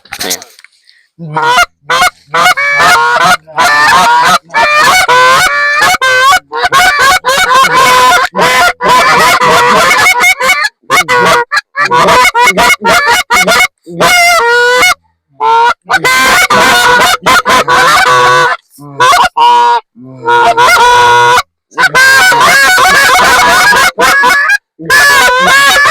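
Goose honking: loud, close, rapid runs of honks and clucks, many overlapping, with short breaks between runs.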